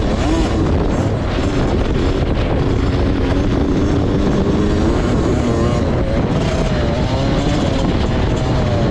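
Motocross bike engine revving up and down as it is ridden around the track, the pitch rising and falling with the throttle, over a constant low rumble.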